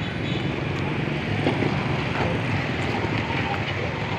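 Steady noise of road traffic on a busy street.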